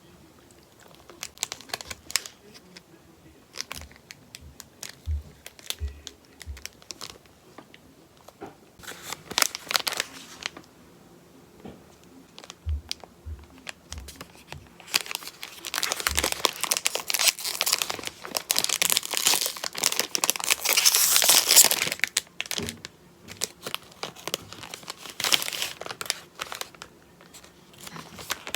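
A wrapper crinkling and tearing as it is handled and opened. Scattered rustles and small clicks build to a long, dense stretch of crinkling in the middle, with a shorter burst near the end.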